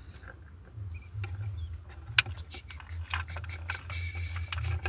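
Clicks and light rattles of objects being handled, with one sharp click about two seconds in, over a steady low hum.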